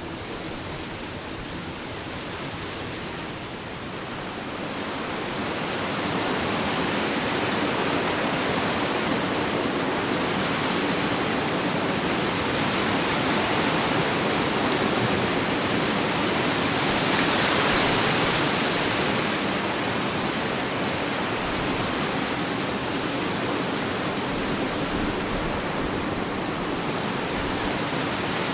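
Ocean surf washing on a beach as a steady rushing noise. It builds over the first few seconds, and a louder wave breaks about two-thirds of the way through.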